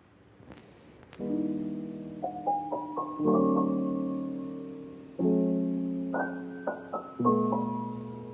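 Background piano music that starts about a second in: slow, gentle chords struck every second or two, each left to ring and fade.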